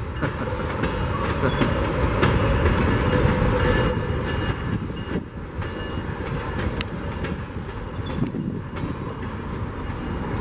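Work train rolling slowly past: the wheels of a railroad transfer caboose and tie-loaded flatcars rumbling over the rails, with a few sharp knocks and a faint wheel squeal.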